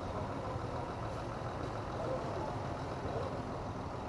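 Steady low rumble of an idling vehicle engine, with no sharp events.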